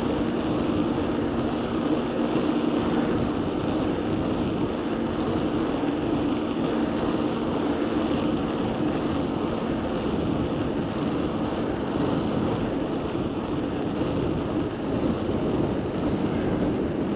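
Steady wind rushing over the microphone while cycling, with a faint low hum underneath that fades out about ten seconds in.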